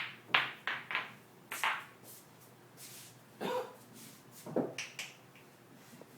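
Pool balls knocking and clicking irregularly as a cat bats them around a pool table: a quick run of knocks in the first two seconds, then a few more later.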